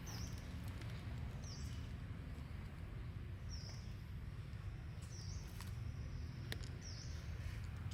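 A bird's short high chirp, a quick drop in pitch ending on a brief held note, repeated about every one and a half to two seconds, about five times, over a steady low rumble.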